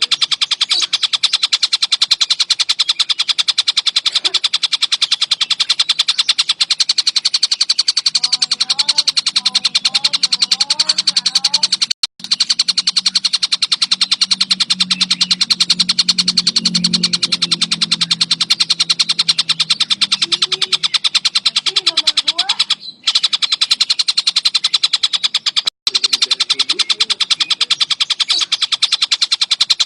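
Tengkek buto kingfisher call used as a masteran: a continuous, very fast high-pitched rattling trill of repeated notes, cut off briefly three times where the recording is spliced.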